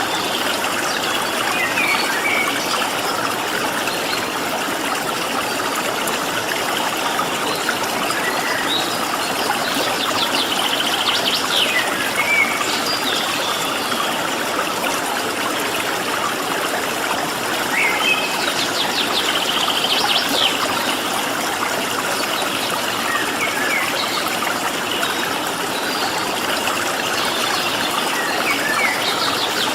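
Water flowing steadily in a stream, with small birds giving short chirps and trills every few seconds over it.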